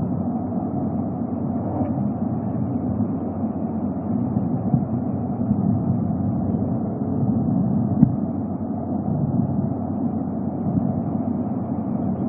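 Steady low rumbling background noise, with two brief knocks, one about five seconds in and one about eight seconds in.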